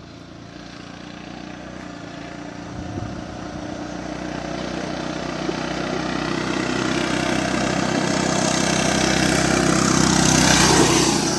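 Riding lawnmower's small engine running hard at speed, growing steadily louder as the mower comes closer, then passing close by and dropping away just before the end.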